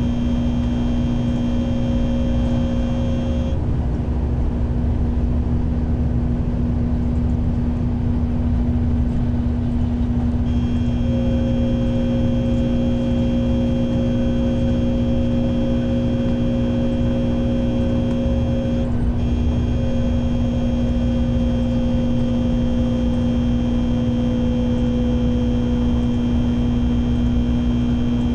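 Interior running noise of a Shinkansen bullet train: a steady low rumble with a constant electric hum and motor whine. A set of high whining tones cuts out about three seconds in and comes back around ten seconds in. Near the end a tone slowly falls in pitch as the train slows for its stop at Okayama.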